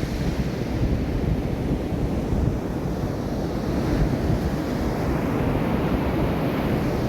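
Wind buffeting the microphone over the steady wash of ocean surf breaking on a beach.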